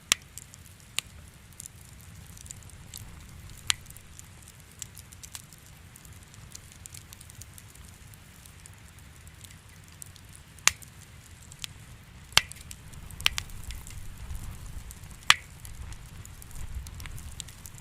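Wood fire crackling in a fireplace: irregular sharp pops and snaps, a few much louder than the rest, over a low steady rumble of the flames.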